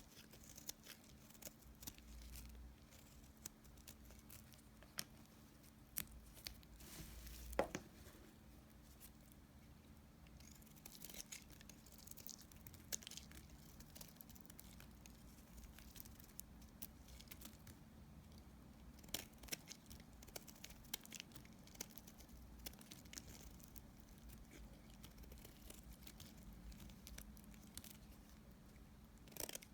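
Knife cutting through dry leftover soap pieces: faint scattered crackles and ticks, with a louder crunching scrape about seven seconds in.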